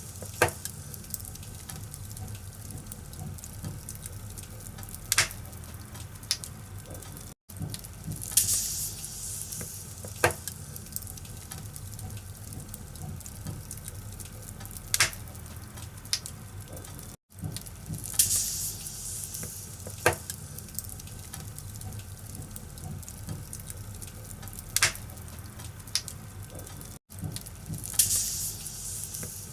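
Wood fire burning in a fireplace: a steady low rumble and hiss of flames with sharp crackles and pops from the burning logs, a few per stretch. The recording is a loop that repeats about every ten seconds, with a brief cut-out each time it restarts.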